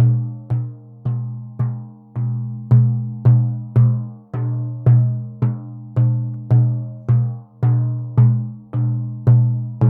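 Frame drum (buben) beaten in a steady, even rhythm of a little under two strokes a second. Each stroke rings with a deep low tone that fades before the next.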